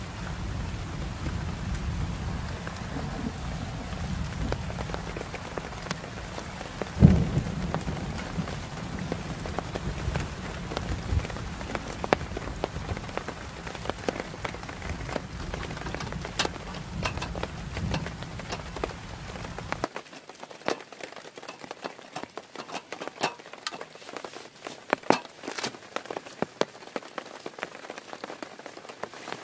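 Heavy rain falling, with a dense patter of drops and a low rumble under it, and a single loud thump about seven seconds in. About twenty seconds in the low rumble drops away and separate raindrops tap more sparsely and sharply.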